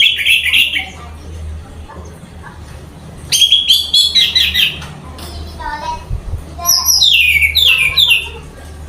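Orange-headed thrush (anis merah) singing: three loud bursts of rapid, varied notes, at the start, in the middle and near the end, some phrases falling in pitch, over a steady low hum.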